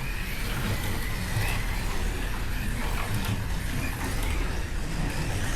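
Hypercar-class slot cars lapping the track under power: a steady whir of small electric motors and tyres on the track, with a faint wavering motor whine.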